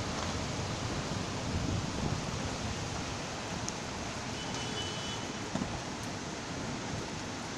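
Steady heavy rain, an even hiss, with low gusts of wind buffeting the microphone.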